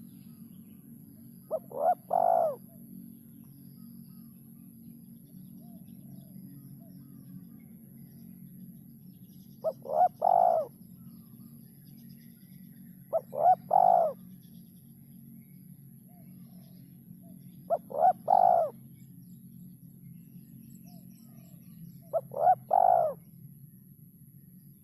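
Spotted dove (derkuku) cooing: five calls spaced a few seconds apart, each a quick short note or two followed by a longer, fuller coo. A steady low hum runs underneath.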